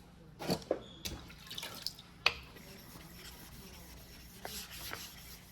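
Water dripping and splashing with a few sharp knocks and clicks, the loudest about two seconds in, as a wet knife and whetstone are handled during hand sharpening.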